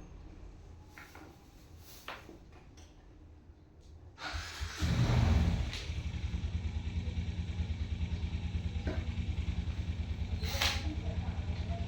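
An engine starts about four seconds in, briefly speeds up, then settles into a steady idle with a rapid even beat. Before it, a few faint clicks.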